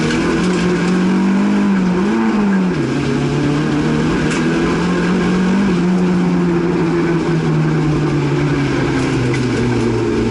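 Rally Opel Astra's engine heard from inside the cabin, pulling hard with its pitch climbing, dropping sharply about three seconds in, then climbing again and falling back near the end.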